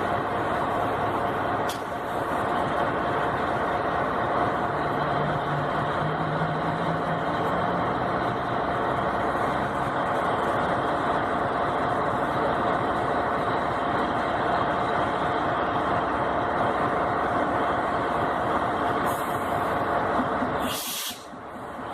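Passenger train arriving, its steady running and rolling noise continuous with a constant tone over it. A brief hiss near the end.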